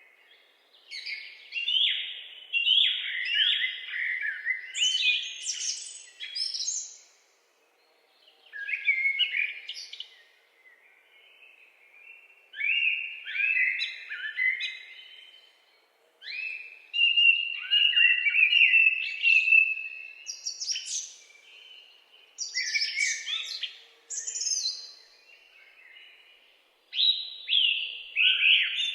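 Birds singing in busy phrases of chirps and trills, coming in bouts of a few seconds with short pauses between.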